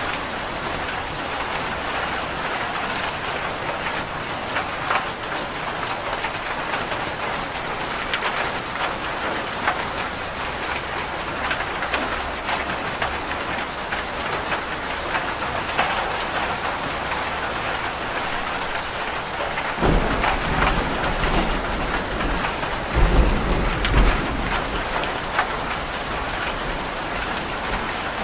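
Steady rain falling on a roof, with many separate drop hits. About two-thirds of the way in a low rumble of thunder begins, swelling to its loudest a few seconds later before fading back under the rain.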